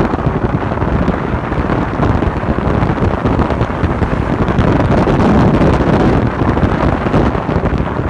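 Wind buffeting a phone's microphone on a moving motorcycle: a steady, loud rushing noise, heaviest in the low end.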